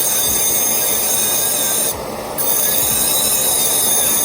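Dental lab handpiece with a bur grinding a long-term temporary restoration: a steady high-pitched whine over a rasping grind, easing off briefly about two seconds in.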